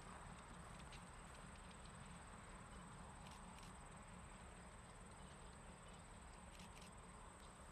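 Near silence: faint outdoor background with a steady thin high whine and a few faint ticks.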